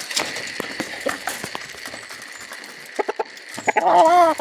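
Chickens feeding: many short taps and scattered clucks, then a loud drawn-out squawk that arches in pitch near the end.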